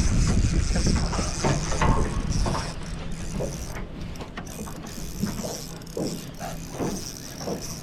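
Fishing reel ratcheting and clicking while a big fish is played on the line, over a low rumble that fades after the first couple of seconds.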